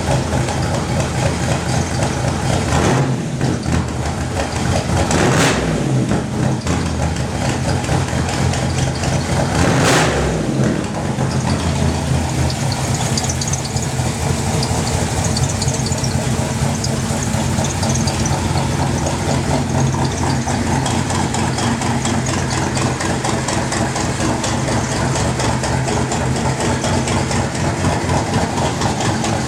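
A 1964 Chevrolet pickup's freshly built engine idling steadily after a cold start, with two short rises in engine speed about five and ten seconds in.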